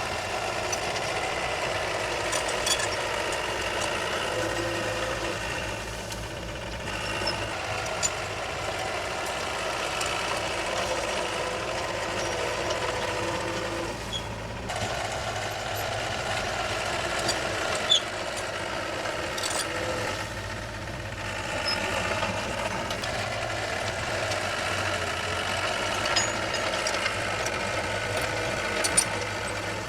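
Diesel engine of heavy earthmoving machinery running under varying load, its note shifting up and down every several seconds. A few sharp clanks stand out over it.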